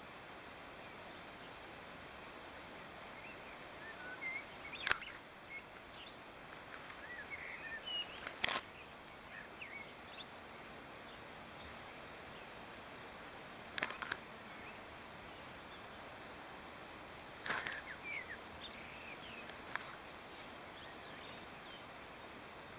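Rural outdoor ambience: a steady soft hiss with scattered short bird chirps and sharp calls that come in several brief bursts.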